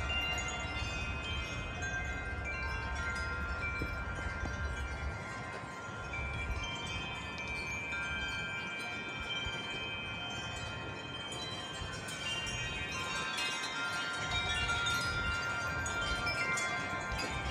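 Several wind chimes ringing in gusty wind, many overlapping tones that ring on and fade as new strikes come in. Low wind rumble comes and goes underneath.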